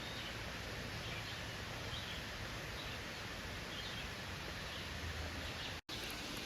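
Outdoor ambience: a steady hiss of background noise with faint, scattered bird chirps. The sound cuts out for an instant near the end.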